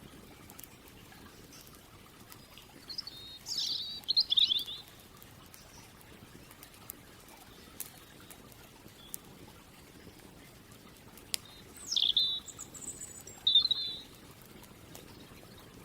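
A songbird singing two short phrases several seconds apart, each a steep downward-sweeping note followed by a quick trill.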